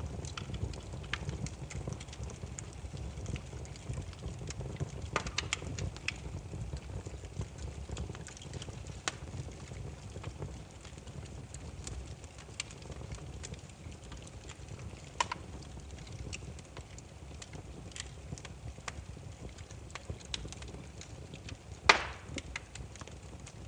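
Firewood campfire burning: a low steady rumble of flames with scattered sharp crackles and pops, and one louder pop near the end.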